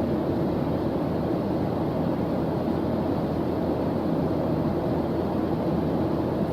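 Steady, unchanging white-noise background track: an even, deep-toned hiss with most of its weight in the low range.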